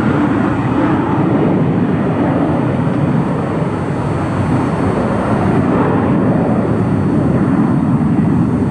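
Jet engines of a Frontier Airlines Airbus airliner departing, a loud, steady roar.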